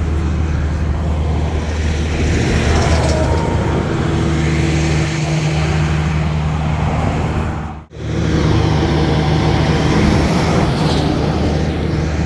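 Highway traffic passing, over a steady low engine hum. The sound cuts out for an instant about eight seconds in.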